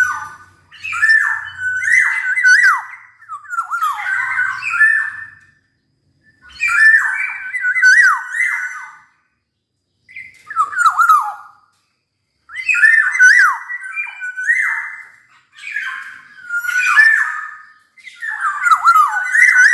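Black-naped oriole singing in a run of about eight short phrases with brief pauses between them. Each phrase mixes fluty whistled notes gliding up and down with harsher, raspy notes.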